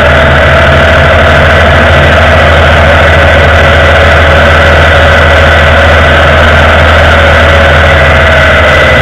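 Indian Vintage motorcycle's V-twin engine running steadily while riding at an even road speed, heard loud and close from the leg guard, with wind and road noise mixed in.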